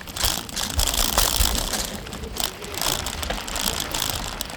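Bicycle riding over a dirt trail: tyres crunching on the ground and the bike rattling over bumps, with scattered clicks.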